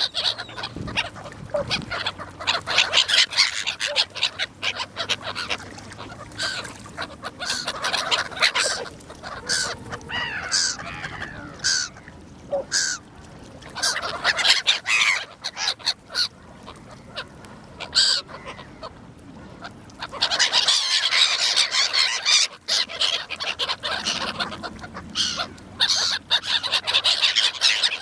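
A flock of gulls calling, with many cries overlapping throughout and a quieter spell about two-thirds of the way through.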